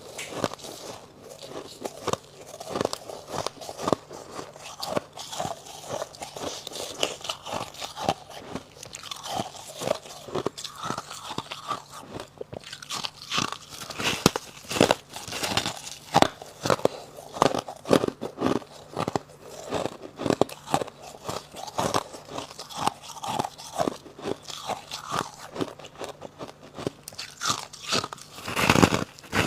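Close-up biting and chewing of crunchy freezer frost and ice: dense, irregular crunches with no let-up, and a louder, longer crunching noise near the end.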